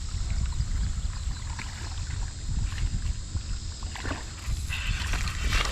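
Wind buffeting the microphone as a low, uneven rumble while on the water in a kayak, with a couple of short noisy bursts about four seconds in and near the end.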